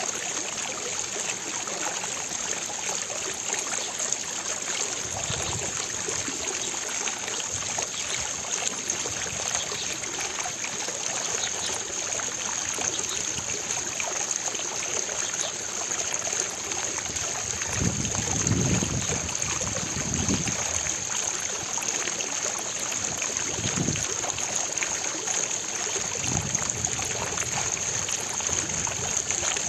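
Fountain water splashing steadily into its basin, with a few brief low rumbles about a third of the way in and later on.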